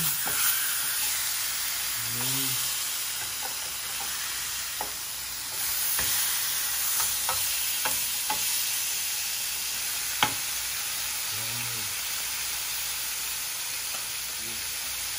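Tuna steaks sizzling in a hot, oiled ridged grill pan while a metal spoon turns them over, with scattered clicks and scrapes of the spoon on the pan. The sizzle grows louder about halfway through, once the steaks are flipped onto their raw side, and one sharp clink comes about ten seconds in.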